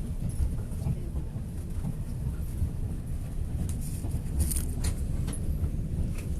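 Steady low running rumble of a Taiwan Railway express train, heard from inside the passenger car, with a few brief high clicks about four and a half seconds in.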